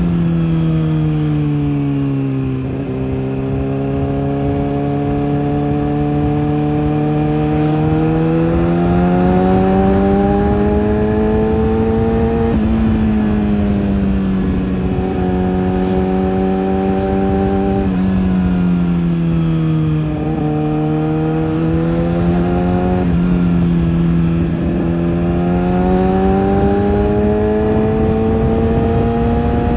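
Kawasaki ZX-6R's inline-four engine through its exhaust, the engine speed slowly falling, holding, and climbing again several times, with a few sudden drops in pitch as gears change.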